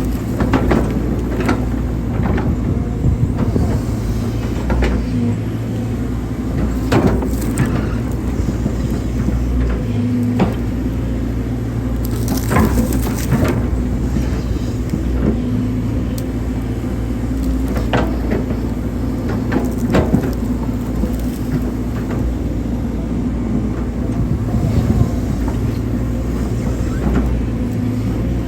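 Hydraulic excavator's diesel engine running steadily under load, with irregular knocks and clanks every few seconds as the bucket digs.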